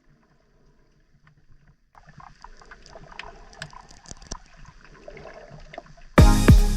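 Near silence, then faint water sounds with light clicks from about two seconds in; loud music with a steady beat cuts in near the end.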